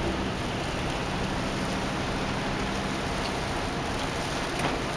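Steady road noise inside a Dodge Sprinter van's cabin: tyres hissing on a wet, snow-covered highway, with a faint low engine hum underneath that fades about halfway through.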